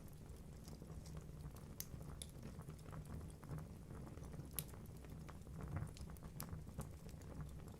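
Wood fire burning in a fireplace: a low steady rush of flames with scattered sharp crackles and pops from the logs.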